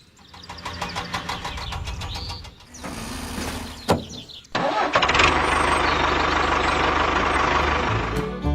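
A small engine being started: rapid even ticking as it cranks, then, after an abrupt change about four and a half seconds in, running steadily and loudly.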